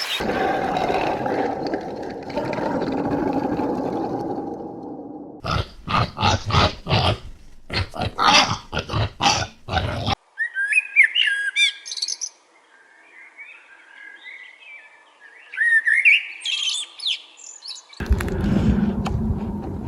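Animal sounds in separate cuts: a rough, noisy call, then a quick run of about a dozen short loud calls, then birds chirping in rising notes.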